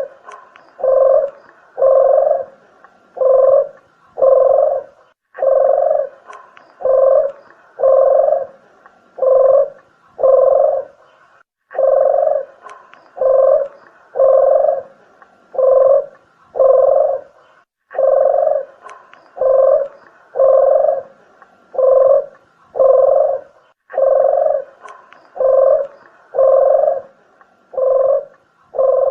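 Red turtle dove (puter geni) cooing: a lure recording of deep, even coos, about one a second, in phrases of five or six that repeat every six seconds or so.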